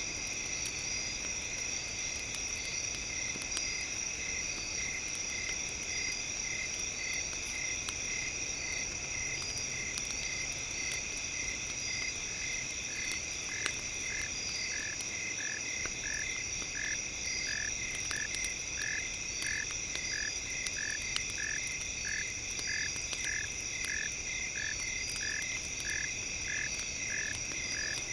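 Frogs calling in short, evenly repeated notes, about two a second, with a second, slightly lower-pitched caller joining about halfway, over a steady high-pitched drone. Faint scattered crackles, as of a campfire, run underneath.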